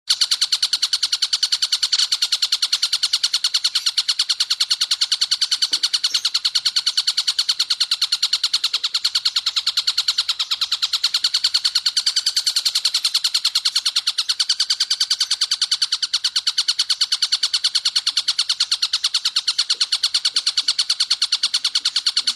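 Tengkek buto kingfisher calling in one long, fast, even rattle of rapid notes, held without a break.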